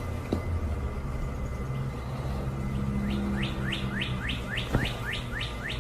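A bird calling a rapid series of short chirps, each falling in pitch, about three a second, starting about halfway through, over a low steady hum.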